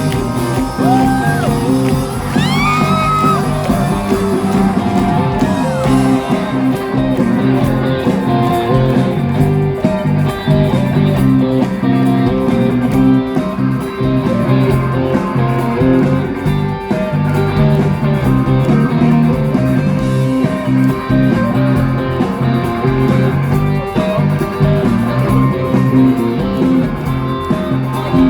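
Live rock band playing an instrumental passage with electric guitars to the fore, recorded from the crowd on a phone.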